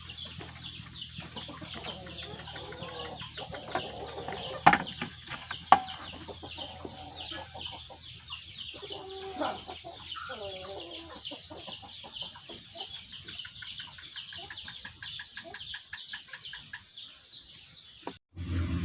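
Chickens clucking, over a dense, fast, high-pitched chirping that runs throughout. Two sharp clicks come about five and six seconds in.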